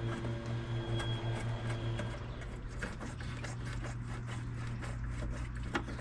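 Scattered small metal clicks and taps of hand tools working on parts in a car's engine bay, over a steady low hum that pulses for about the first two seconds and then runs evenly.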